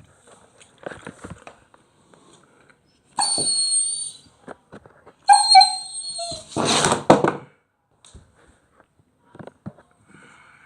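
Black German Shepherd puppy whining: two high, drawn-out whines of about a second each, then a louder rough burst, with light taps and clicks around them.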